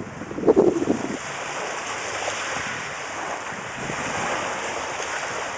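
Steady hiss of wind on the microphone and the sea at the shore, with a short louder burst of noise about half a second in.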